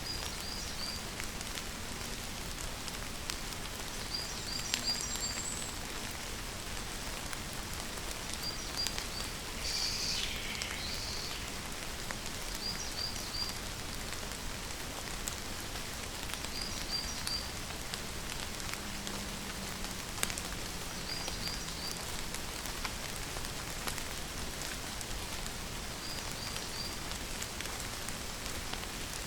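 Steady rain falling, with a patter of individual drops. A bird repeats a short high three-note chirp about every four seconds, and gives one louder, falling call about ten seconds in.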